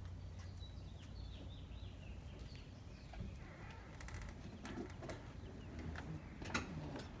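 Faint outdoor ambience: a quick run of short falling bird chirps, then a few sharp clicks and knocks over a low steady hum.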